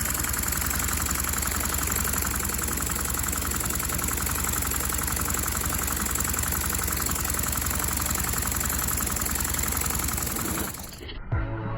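LEGO overhead-valve vacuum engine running fast and steadily: a rapid, even clatter of plastic parts over a steady hiss. It cuts off sharply near the end, and music starts.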